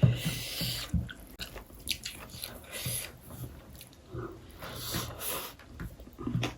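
Chewing and biting sounds of chicken biryani being eaten close to the microphone, in short irregular bursts and clicks.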